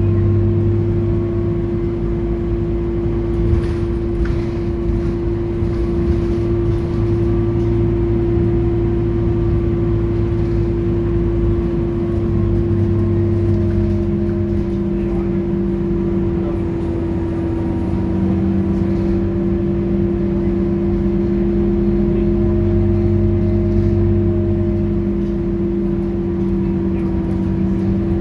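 Scania K230UB bus's diesel engine running at a steady speed, a constant hum with a low drone that rises and falls slightly.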